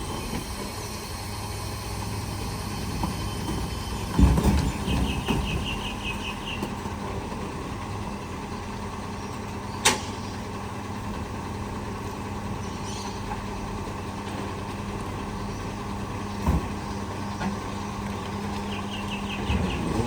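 Bulk waste truck's engine running steadily, with a loud thump about four seconds in, a sharp knock near ten seconds and a smaller thump near the end.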